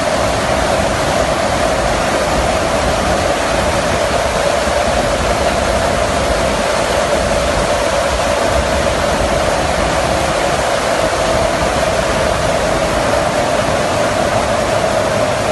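Aeroplane noise: a loud, steady rushing drone with a constant mid-pitched hum running through it, unchanging throughout.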